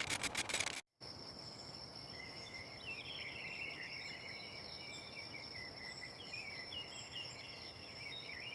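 A rapid run of clicks, broken off by a short silence about a second in. After that, a steady high insect trill, like crickets, with small birds chirping over it.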